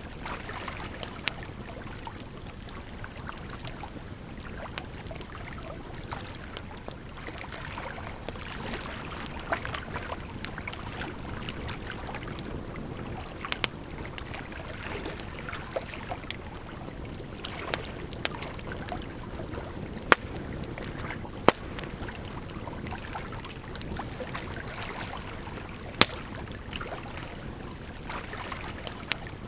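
Firewood fire crackling, with scattered sharp pops, a few of them loud, over the steady rush of running water.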